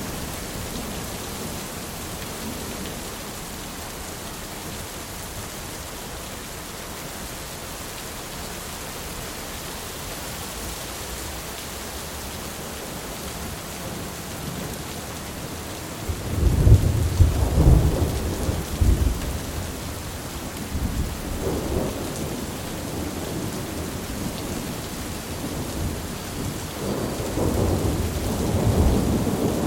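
Thunderstorm: steady heavy rain hissing throughout, with rolling thunder rumbling in about halfway through and again building near the end.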